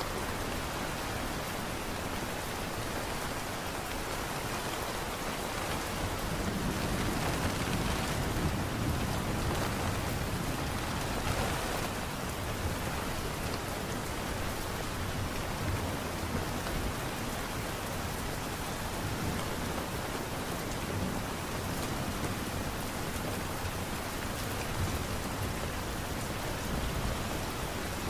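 Steady light rain pattering, with a low rumble swelling up about a quarter of the way in and again near the end.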